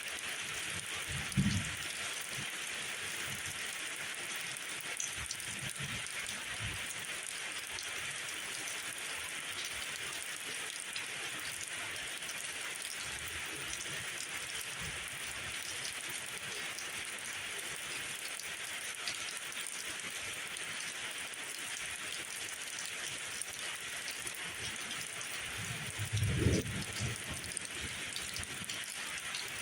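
Steady rain falling, an even hiss, with two brief low thumps: one about a second and a half in and a louder one near the end.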